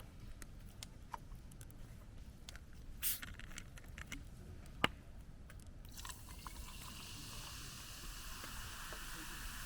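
Scattered light clicks and knocks of cooking gear being handled, then, about six seconds in, food starts sizzling in a hot pan over the fire and keeps sizzling steadily.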